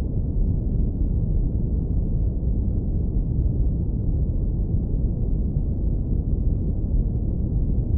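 Synthetic brown noise, low-pass filtered into a warm, deep rumble: a steady, unchanging noise with nothing high-pitched in it.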